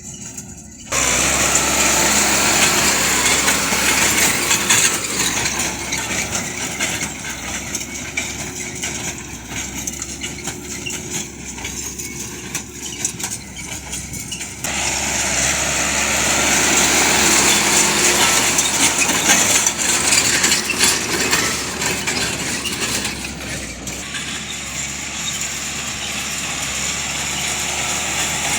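Tractor engine running steadily with machinery clatter; the sound shifts abruptly about a second in and again midway.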